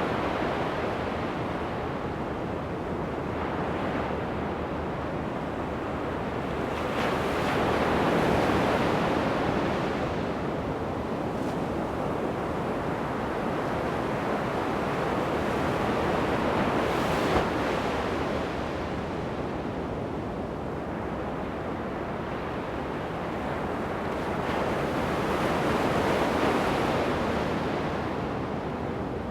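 Ocean surf breaking on a sandy beach, the waves swelling and washing up at intervals of several seconds, with a little wind on the microphone.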